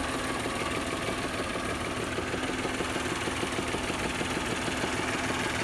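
2004 Volkswagen Passat V6 engine idling steadily with a fast, even pulse. The engine is smoking and not idling smoothly, which the owner thinks might be an exhaust leak.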